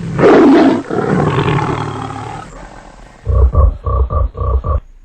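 A roar sound effect standing for a jaguar, loudest at the start and fading over about two and a half seconds, followed by about half a dozen quick croaks standing for a tree frog.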